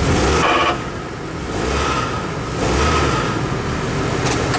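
Chevy TrailBlazer's 4.2-litre straight-six engine running, its revs swelling and falling back twice while the newly adjusted parking brake is tested.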